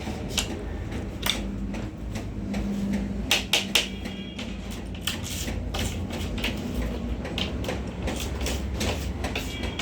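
Irregular sharp clicks and knocks, several close together about three to four seconds in, over a low steady rumble.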